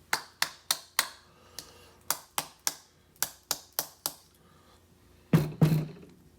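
Sharp metallic clicks in quick groups of three or four from a pin-tumbler lock and its key being worked in the keyway, the pins catching at a second shear line so the key will not turn. Two heavier knocks come near the end.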